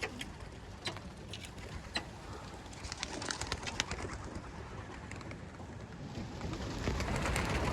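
Racing pigeons cooing, with scattered sharp wing claps and flutters as birds leave the release crates and take off. The sound builds over the last couple of seconds.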